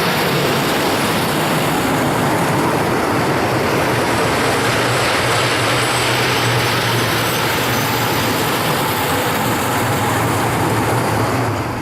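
Freight train rolling past at speed: steady loud rumble and hiss of wheels on the rails, with a low hum underneath.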